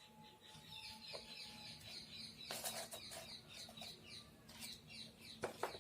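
Faint birds chirping over and over in quick short falling notes, with a few soft clicks and knocks about halfway through and again near the end.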